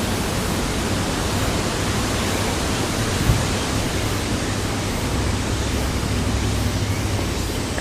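Wind buffeting the microphone: a steady rushing noise with a low rumble, and a brief thump a little over three seconds in.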